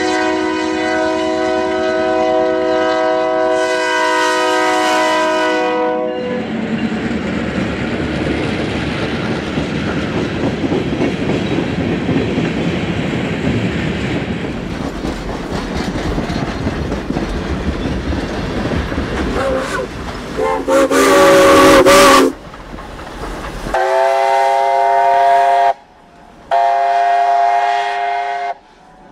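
Diesel locomotive air horn sounding a multi-note chord for about six seconds as it approaches, then a long string of covered hopper cars rolling past with steady wheel and rail clatter, and a short loud blast around twenty seconds in. From about twenty-four seconds in, the Chinese QJ 2-10-2 steam locomotive's whistle blows in several blasts.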